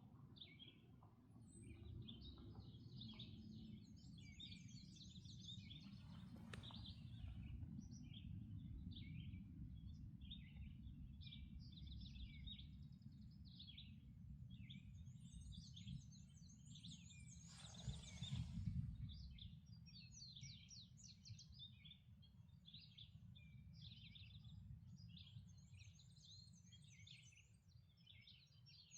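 Many songbirds singing and calling at once, short notes and high trills overlapping, over a faint low rumble. About two-thirds of the way through, a brief louder rush of noise is the loudest sound.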